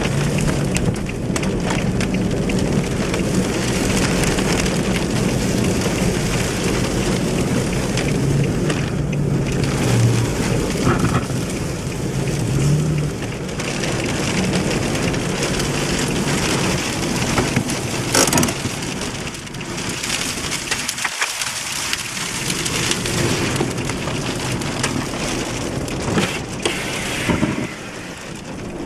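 Heavy rain pouring down in a severe thunderstorm, a loud steady rush, with a brief sharp crack about eighteen seconds in.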